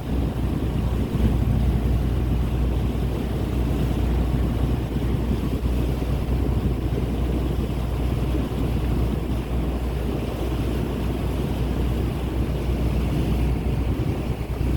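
A boat under way: its engine running steadily with a low hum, under wind buffeting the microphone and rushing water.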